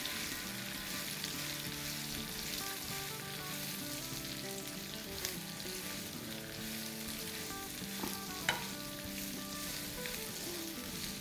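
Cut ridge gourd pieces sizzling in hot oil with mustard seeds and ginger-garlic paste in a wok as they are stirred with a silicone spatula. A few light clicks of the spatula against the pan near the middle and later on.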